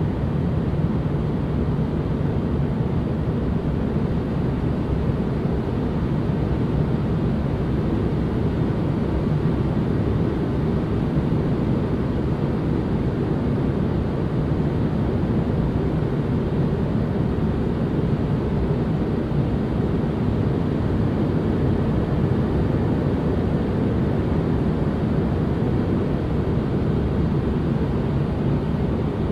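Steady, unchanging white-noise ambience: an even, deep rushing hiss, weighted toward the low end with little brightness on top.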